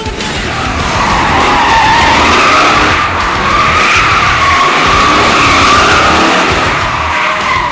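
Car tyres squealing in a long continuous skid, the squeal wavering up and down in pitch as the car slides, over the car's engine.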